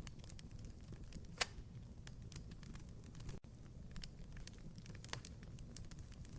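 Wood fire in a fireplace crackling, with a soft low rumble under frequent small snaps and a sharp pop about a second and a half in and another near five seconds.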